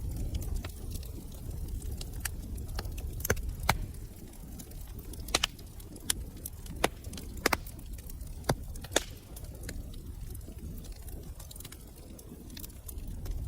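Wood fire crackling in a fireplace: irregular sharp pops and snaps, busiest in the middle, over a low steady rumble of the flames.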